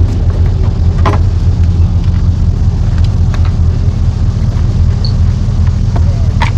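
An engine running steadily at idle, a low even hum, with a short knock about a second in and another near the end.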